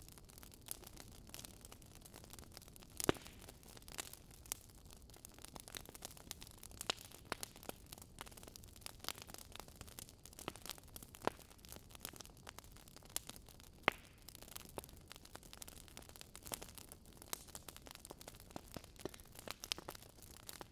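Metal spoon clicking and scraping against a glass bowl while stirring an olive-oil and lemon dressing: many light, irregular clinks over a faint hiss, with two sharper clinks about three seconds and fourteen seconds in.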